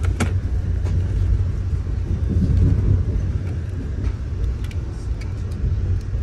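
Moving passenger train heard from inside the coach: a steady low rumble of the wheels running on the rails, with a few short sharp clicks.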